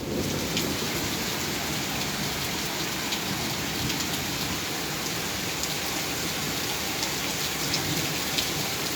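Heavy rain falling steadily, a dense even hiss with occasional sharper drop ticks on nearby surfaces.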